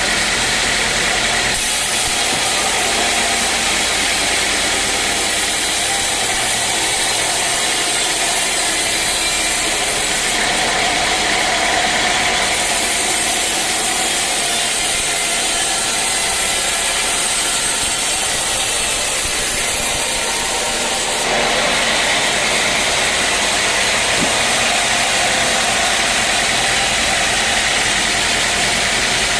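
Sawmill machinery running steadily: an engine-like drone under a dense hiss. The sound changes character abruptly three times, at about a second and a half in, near the middle, and about two-thirds through.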